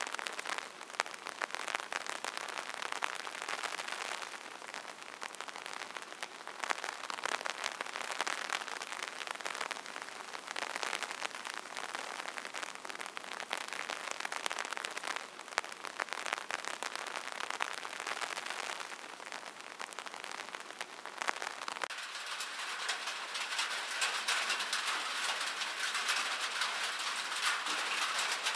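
Rain falling steadily: a dense hiss of many small drop ticks. About 22 s in, it switches abruptly to a brighter, thinner patter of rain.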